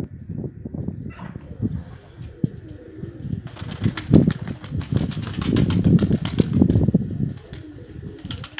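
Domestic pigeons cooing, with a rapid run of wing flaps through the middle.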